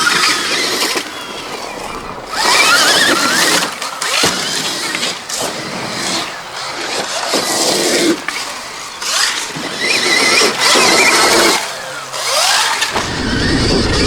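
2024 Stark Varg electric motocross bike's motor whining up in pitch again and again as the throttle is opened, each surge mixed with the noise of the drivetrain and knobby tyres on dirt. A low rumble comes in near the end.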